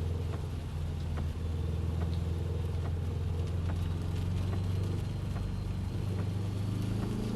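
Subaru WRX engine running at a steady speed, a low drone that holds one pitch, with scattered faint ticks over it.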